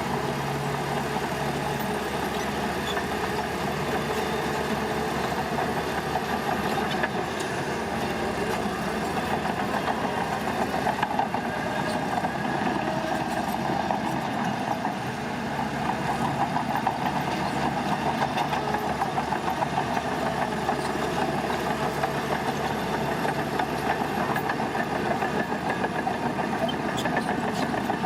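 Diesel engine of heavy earthmoving equipment running steadily at a constant level.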